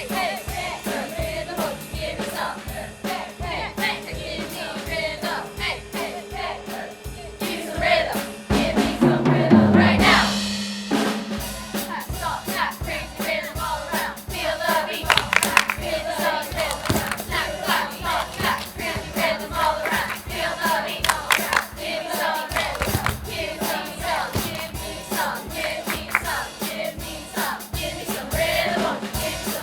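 A large combined high-school choir singing with percussion keeping a steady beat.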